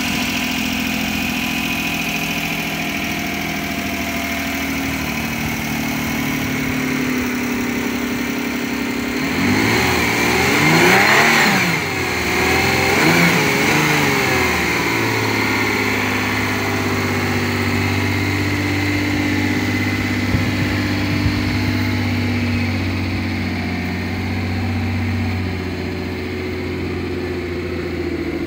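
A 2002 Isuzu Rodeo's 3.2-litre V6 engine running at idle. About ten seconds in it is revved up and back down a few times over some five seconds, then settles back to a steady idle.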